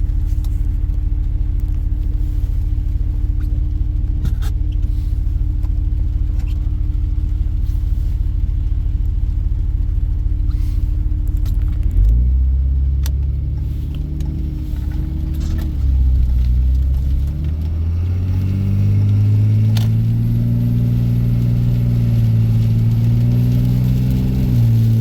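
Diesel pickup engine idling steadily, then, about twelve seconds in, the truck pulls away and accelerates, its engine pitch rising and dropping as the automatic transmission shifts up.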